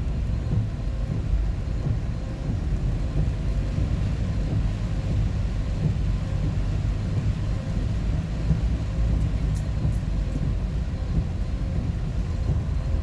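Steady low rumble of a truck's engine and road noise, heard inside the cab.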